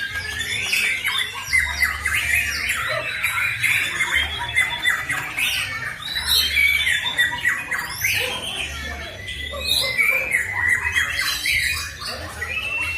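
White-rumped shamas (murai batu) singing hard in competition: a dense, unbroken run of chattering, harsh notes and whistled phrases.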